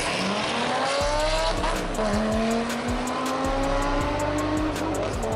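A high-performance sports car's engine under hard acceleration. The pitch climbs, drops back at gear changes about one and two seconds in, then rises in one long pull through the next gear.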